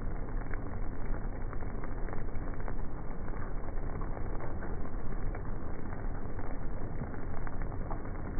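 Wind and rain on the microphone: a steady low rumbling hiss with many scattered light ticks.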